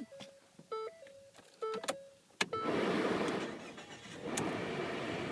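A car's warning chime dings repeatedly. Then, about two and a half seconds in, the engine cranks and starts, and it settles into a steady idle.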